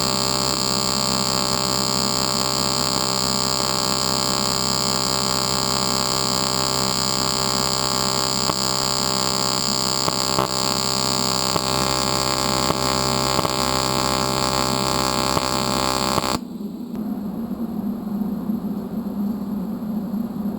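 Eastwood TIG 200 AC/DC welder giving off a steady electrical buzz with many tones, which cuts off abruptly about sixteen seconds in, leaving a lower, rougher hum.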